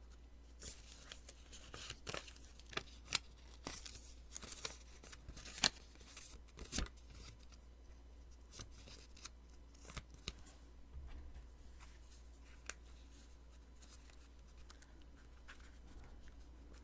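Post-it sticky notes being peeled off and handled close to the microphone, giving irregular crisp, sticky ripping and paper crackles. The crackles come thickly for the first several seconds, then more sparsely.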